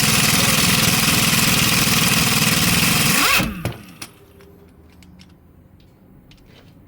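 A power tool runs loudly with a fast pulsing rattle for about three and a half seconds, then winds down in pitch as it stops; a second short burst starts right at the end.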